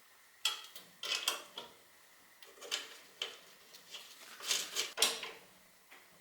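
Metal parts and hand tools clinking and rattling as they are handled and set down on a workbench, in irregular knocks with a short ring after each.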